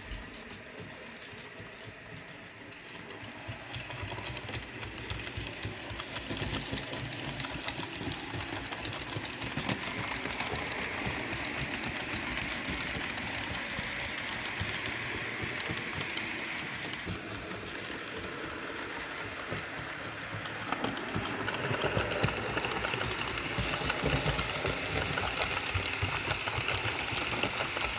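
Model train running on layout track: a steady motor whirr with fast, fine wheel-and-rail clicking. It grows louder about three seconds in as the train approaches, and the whirr rises in pitch at times.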